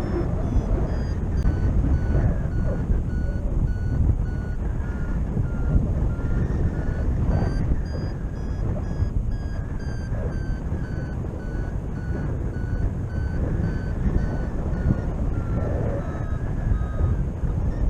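Paragliding variometer beeping in a steady series, about two beeps a second, its pitch drifting and falling slowly near the end: the tone that signals the glider is climbing in lift. Heavy wind buffeting on the microphone runs underneath.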